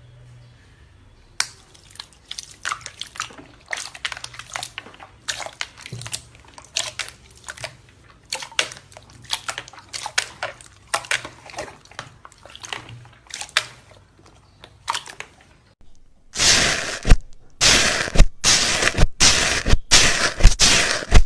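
Slime being squeezed and pressed by hand, making irregular sticky pops and clicks. About sixteen seconds in it turns to louder, denser crackling.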